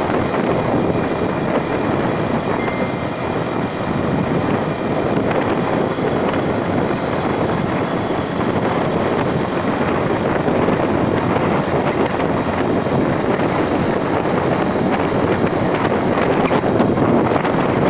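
Steady wind buffeting the microphone over the running noise of a vehicle on the move during the ride, getting slightly louder near the end.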